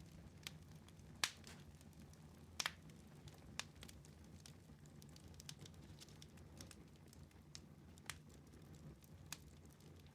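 Fireplace fire crackling softly: irregular sharp pops, a handful over several seconds, over a low steady rumble.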